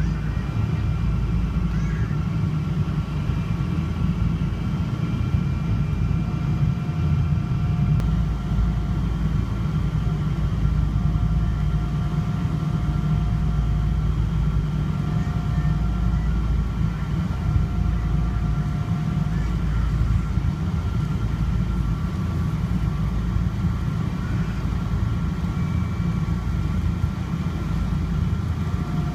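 Steady low rumble of a Boeing 777-200ER heard from inside the economy cabin, with several steady high whining tones over it and a fainter hum that comes and goes.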